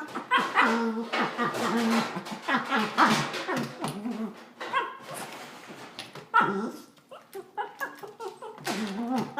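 A dog whining and giving short barks, in a run of brief pitched bursts.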